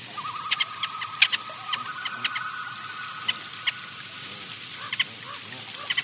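Birds calling: a scattered series of short, sharp chirps over a steady, wavering background tone.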